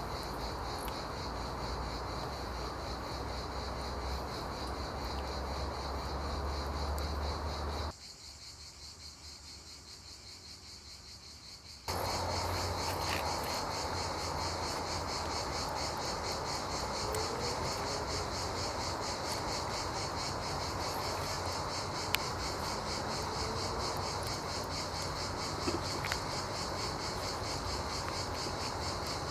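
Insects chirping steadily in a fast, even pulse, cricket-like, over a low steady hum. About eight seconds in, everything drops abruptly to a much fainter level for some four seconds, then returns as before.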